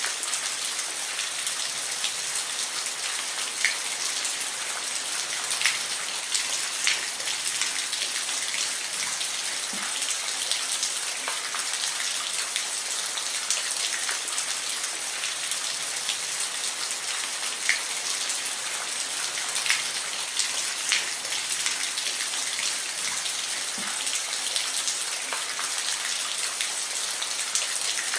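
Steady rain falling: an even hiss with scattered louder drops striking close by.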